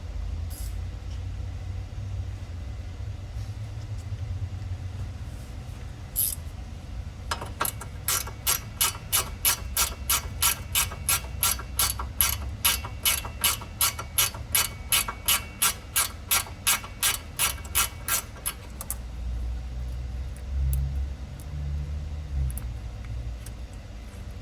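Hand ratchet clicking in a steady run of about three clicks a second for some ten seconds, running out a suspension bolt that has already been broken loose.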